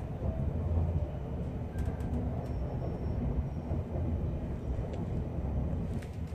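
Passenger train running, a steady low rumble heard from inside the carriage, with a few faint clicks.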